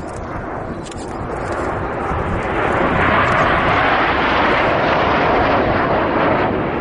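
Red Arrows BAE Hawk jets flying past in formation: a broad jet rush that builds over the first three seconds, then stays loud.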